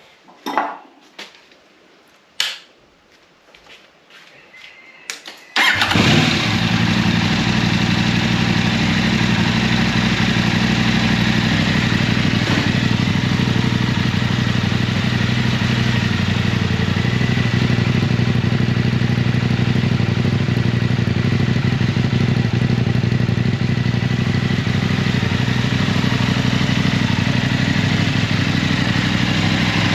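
A few light knocks, then about six seconds in a KTM 890 Adventure's parallel-twin engine starts and settles into a steady idle. It runs through a Wings aftermarket silencer with the dB killer removed.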